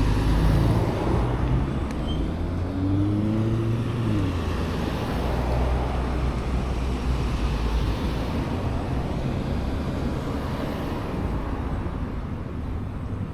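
Road traffic noise: a steady rumble of vehicles, with one vehicle's engine tone rising and falling in the first few seconds.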